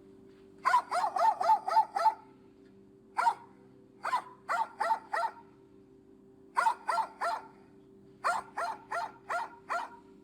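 A dog barking in quick runs of short, high yaps, several a second, in five bursts with pauses between. A steady low hum runs underneath.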